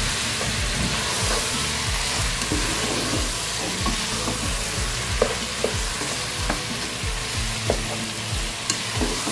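Raw chicken pieces sizzling in hot oil with onions and tomatoes in a cooking pot, being stirred with a spatula. A steady sizzle runs under repeated scraping strokes and an occasional tap of the spatula on the pot.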